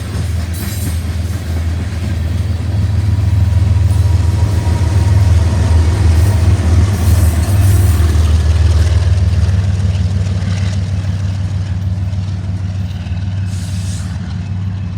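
A loaded coal train passing at close range: a loud, steady low rumble that swells around the middle and eases off near the end.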